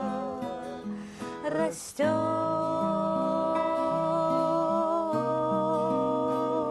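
Acoustic guitar picking under a singing voice: the voice wavers on a note, breaks off with an audible breath just before two seconds in, then holds one long steady note over the changing guitar notes.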